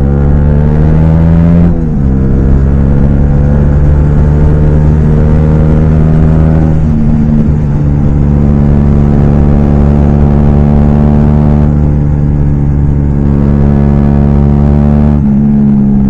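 Honda CB125R's single-cylinder engine with a LeoVince LV ONE Evo exhaust, under way: the revs rise over the first couple of seconds, drop at a gear change, then hold fairly steady with a couple of small shifts in pitch.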